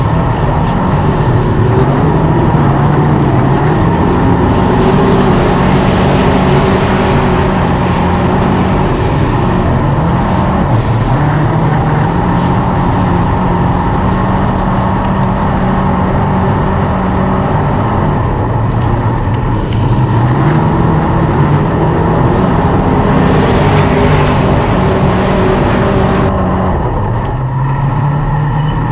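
Dirt-track race car engines running hard at speed, their pitch rising and falling as the cars go around the track, swelling twice as the field passes close.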